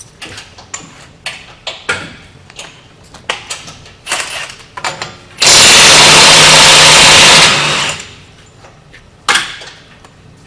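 Impact wrench running in one loud burst of about two seconds, hammering on a bolt, after a run of light clinks and knocks of tools and metal parts. One more sharp knock near the end.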